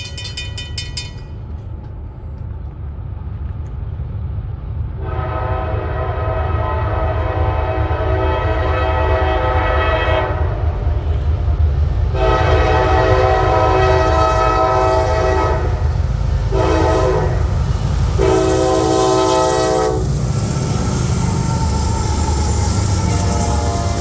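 Norfolk Southern freight train approaching, its locomotive rumbling louder as it nears. The locomotive air horn sounds long, long, short, long, the grade-crossing signal.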